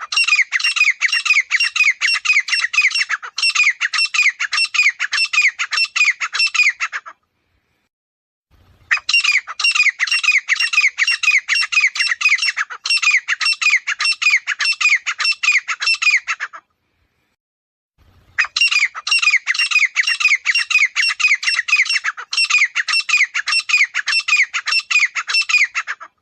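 Grey francolin calling: three bouts of loud, harsh notes repeated in quick succession, each bout lasting about seven seconds, with short silences between.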